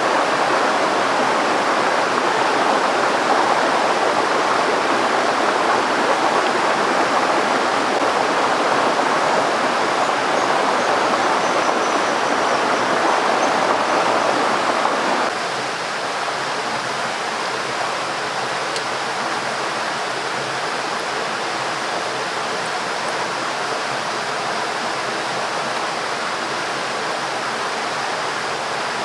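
River water rushing steadily. About halfway through it abruptly becomes slightly quieter and less full.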